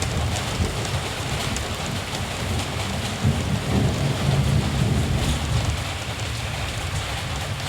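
Steady rain falling, with a low rumble of distant thunder that swells about halfway through.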